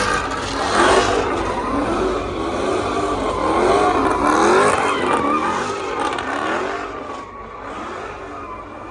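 Car engines revving hard, several at once, their pitch repeatedly rising and falling; the level drops somewhat near the end.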